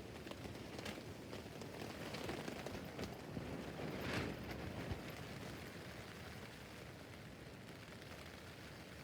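Rain falling steadily on a tent roof, a constant hiss of drops with a brief swell about four seconds in, easing slightly toward the end.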